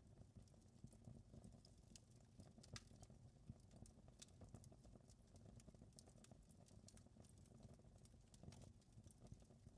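Faint wood fire crackling: irregular sharp pops and snaps over a steady low rumble.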